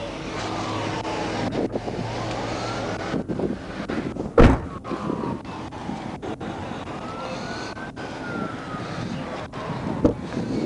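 Emergency vehicle siren in a slow wail, rising and falling every few seconds. A single loud thump about four seconds in is the loudest moment.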